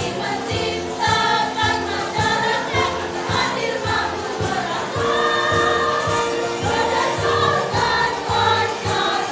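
A choir singing a song in several voice parts over an instrumental accompaniment with a steady beat.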